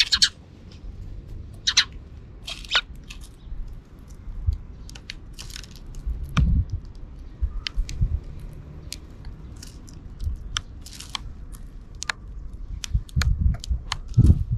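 Sparrows pecking at seed close to the microphone: a scatter of sharp ticks and crunches, with brief chirps now and then and a few low thumps near the end.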